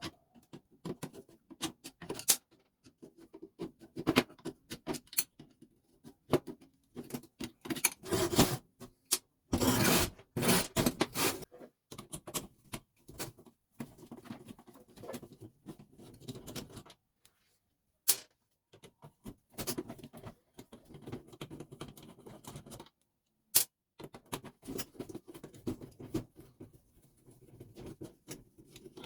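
Irregular clicks, knocks and rattles of a fuse switch's small plastic and metal parts being handled and taken apart by hand, with a few louder clusters of knocking and brief pauses.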